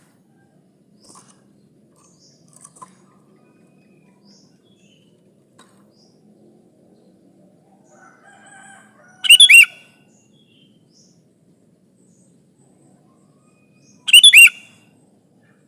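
Sooty-headed bulbul calling: two short, loud bursts of calls about five seconds apart, with faint chirps before them.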